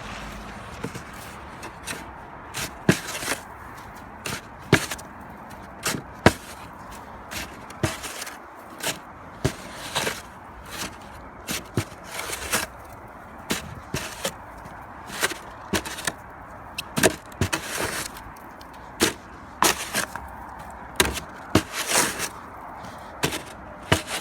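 Repeated sharp knocks or chopping strikes, irregular at roughly one a second, over a steady background rush.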